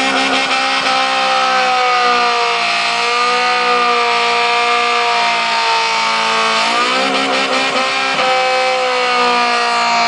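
Car engine revved and held at high revs. Its pitch wavers slowly, drops briefly about seven seconds in, then climbs back.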